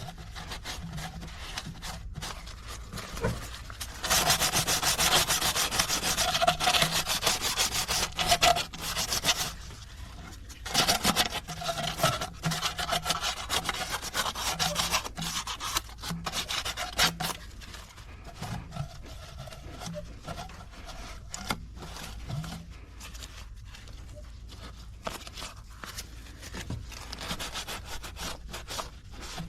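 Rapid back-and-forth scrubbing strokes as an engine's intake manifold mating surface is cleaned for a new gasket, loudest in two long spells in the first half and softer after.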